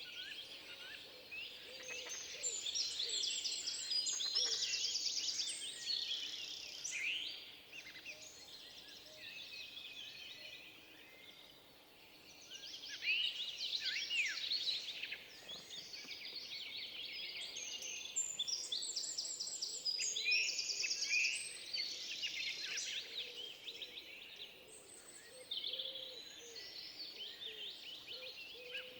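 Songbirds singing together in a forest: a chorus of many overlapping whistles, chirps and rapid trills, thinning out for a few seconds in the middle before building up again.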